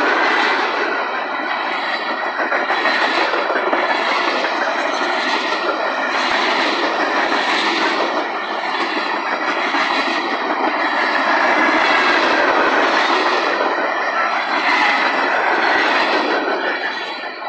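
Freight train cars rolling past close by: a loud, steady rumble of steel wheels on the rails, with recurring clicking as the wheels pass over the track.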